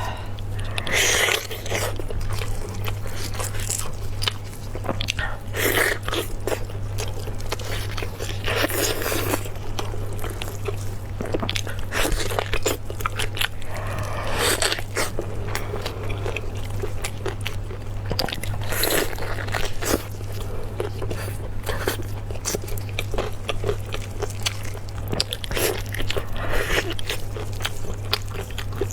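Close-miked eating of spicy beef bone marrow: bites and chewing, with a louder crunchy bite every few seconds, over a steady low hum.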